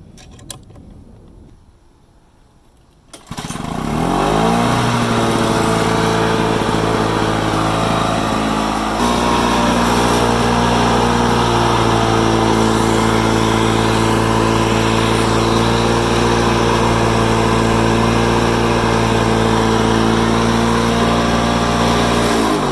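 Lawn-Boy self-propelled mower's small engine starting about three seconds in, after a few clicks, and settling into a loud, steady run. Its note changes about nine seconds in, and it is shut off near the end, its pitch falling away.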